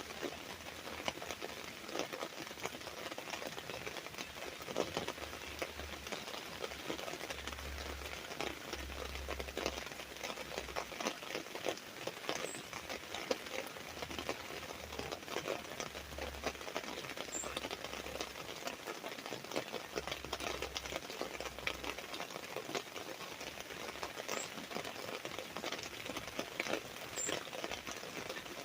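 Rain falling on an umbrella: a steady, dense patter of many drops striking it.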